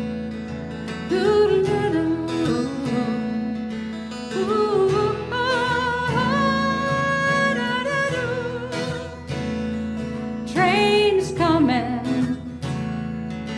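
Song with a singer holding long wordless "ooh" notes with vibrato over strummed acoustic guitar.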